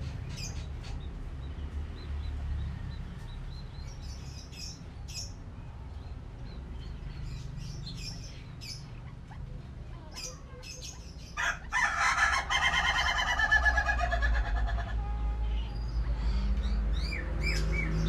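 Small birds chirping here and there, then a loud, harsh bird call lasting about three seconds that drops in pitch as it ends. A few short falling whistled notes come near the end.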